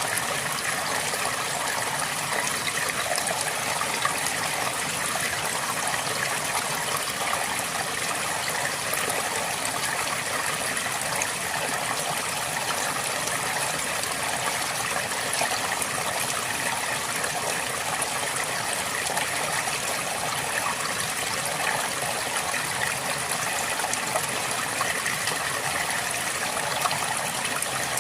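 River water flowing and burbling over rocks in a steady rush with fine trickling detail.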